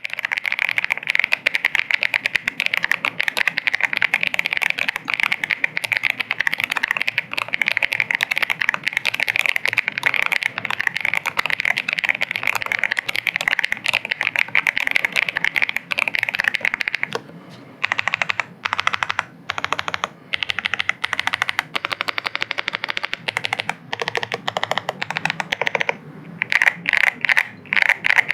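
Typing on a zenzo ZKB104 HiFi gasket-mounted, foam-dampened mechanical keyboard with Dragon Fruit switches. Fast, continuous keystrokes for about the first seventeen seconds, then slower, separate runs of key presses, speeding up again near the end.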